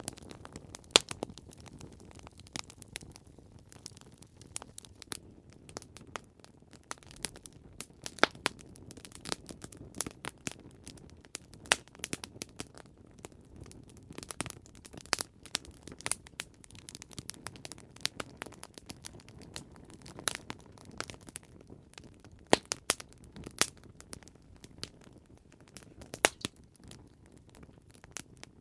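Wood campfire crackling: irregular sharp snaps and pops, several a second, over a low steady rush of burning.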